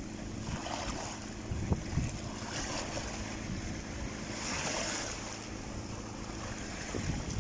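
Sea waves washing onto the shore, swelling and hissing about every two seconds, with wind rumbling on the microphone.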